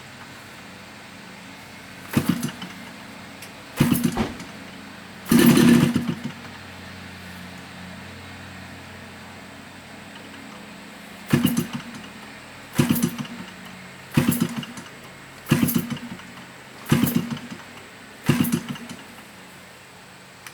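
Model Stearman biplane's engine running at idle on its first run, blipped to higher revs in short bursts, most of them coming about every second and a half in the second half.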